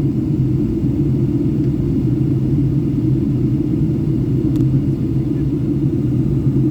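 Steady low rumble of a Boeing 757-200 heard from inside the passenger cabin in descent: engine and airflow noise, even in level, with no change in pitch.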